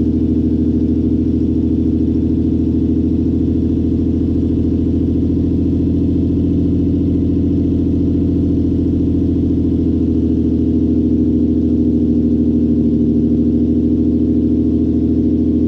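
Lexus GS300's 2JZ-GE VVT-i inline-six idling steadily through a straight-piped exhaust with the catalytic converters and mufflers deleted.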